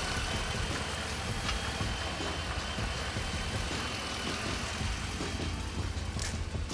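Motor vehicle engine idling steadily, a low hum with a faint high whine over it and a few light ticks.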